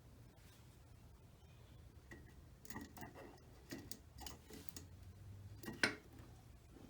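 Faint, irregular clicks and taps of small metal engine parts being handled around the starter one-way gear, with one sharper click near the end, over a low steady hum.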